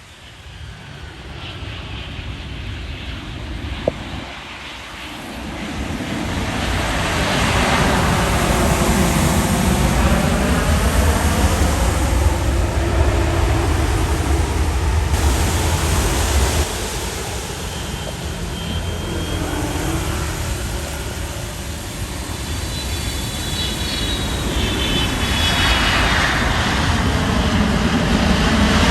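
Engines of a passing aircraft, the noise building over several seconds with a sweeping whoosh as it goes by and a high whine in it later on. The level drops suddenly partway through, then builds again.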